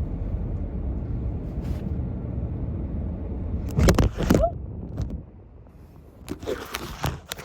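Low, steady rumble of a car moving in reverse, heard from inside, with a few loud knocks and clicks about four seconds in and more clicks near the end.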